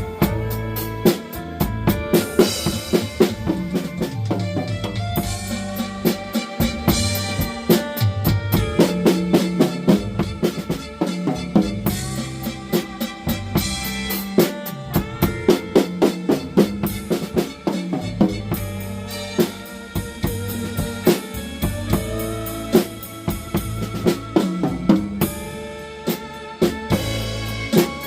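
Drum kit played along to a blues backing track: kick, snare and cymbals keeping a steady groove under pitched melody lines.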